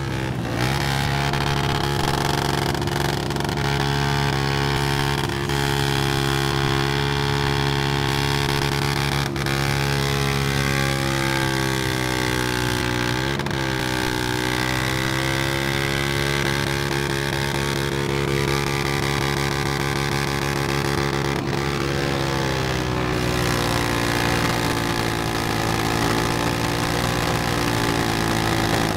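Motorcycle engine running steadily at idle, its speed dipping and recovering briefly about halfway through and shifting slightly again later.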